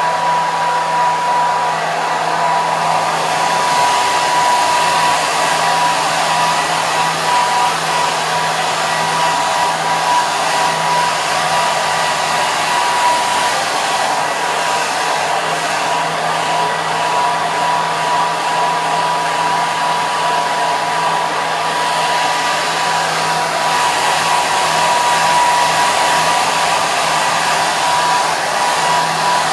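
Hair dryer running steadily: a constant rush of air with a steady motor whine and a low hum.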